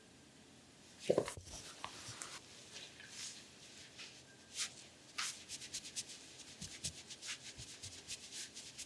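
Hands rubbing and sliding over oiled skin during an abdominal massage: a run of short, quick swishing strokes that begins about a second in, with a louder bump as they start.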